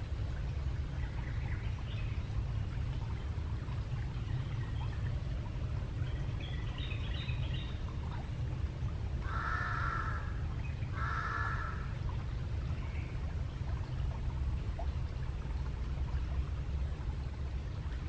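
A crow gives two harsh caws about a second apart near the middle, over a steady low rumbling noise. A few faint high chirps come shortly before the caws.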